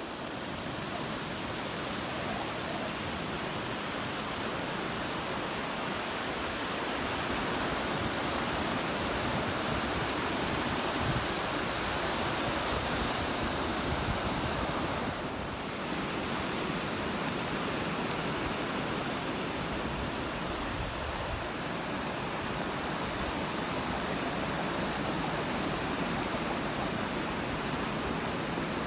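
Steady rushing noise of ocean surf and wind at the beach, dipping briefly about halfway through.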